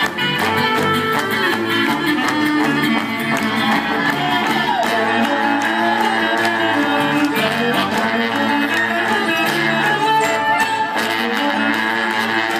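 Live gypsy-folk band playing an instrumental passage of a Romanian-style tune, with fiddle and guitar over a steady beat.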